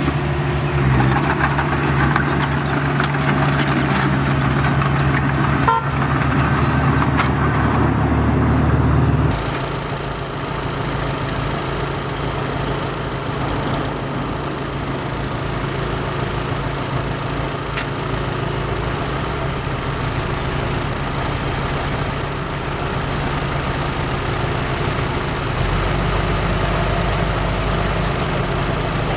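Heavy diesel engine of earthmoving equipment running steadily. About nine seconds in the engine note changes abruptly, and it shifts again near the end, with a single sharp click near six seconds.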